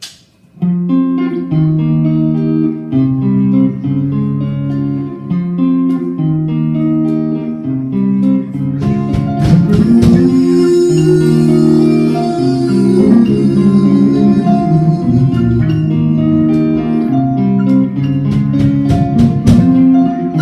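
Live band playing an instrumental song intro: strummed guitar chords over a bass line, starting just under a second in, with percussion joining about halfway through.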